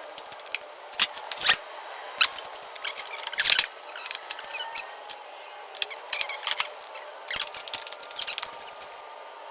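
Irregular light clicks, taps and short clatters of small hard objects being handled and moved about, over a faint steady hum.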